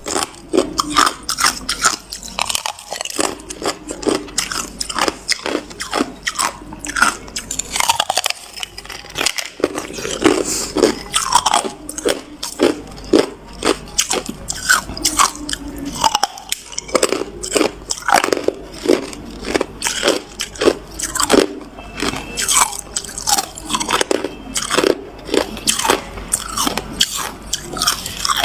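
A person biting and chewing hard ice, a dense run of sharp crunches several a second.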